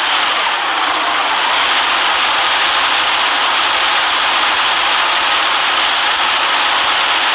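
Protom city bus running: a steady, even hiss of engine and road noise that does not change.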